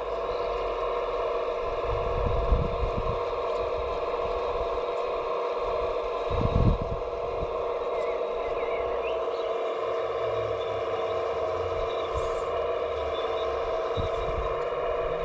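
Small electric motor of an RC scale construction machine whining steadily. A couple of low bumps come about two and six seconds in.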